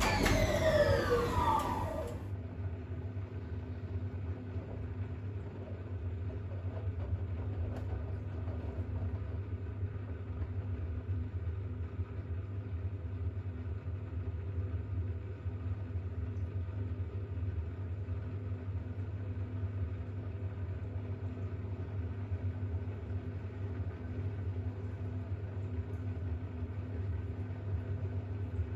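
A falling electronic sweep closes the intro music in the first two seconds. Then a Bosch WAX32GH1 front-loading washing machine runs its spin after the first rinse: a steady motor hum with the drum turning at a constant low speed, the load too unbalanced for the machine to speed up.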